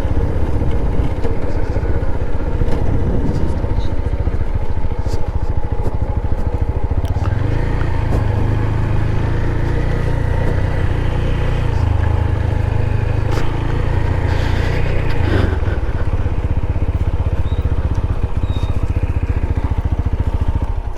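Motorcycle engine running while riding, heard close up with steady road noise. The low rumble grows heavier for several seconds midway.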